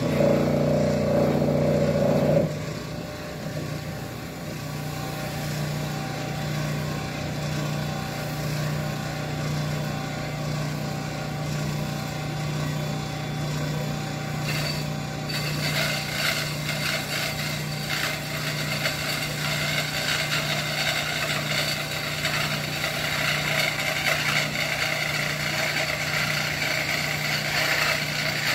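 Electric power tool motor running steadily with a low hum. It is louder for the first couple of seconds. From about halfway through, a rough grinding or sanding noise joins it as the tool works the steel of a knife blade.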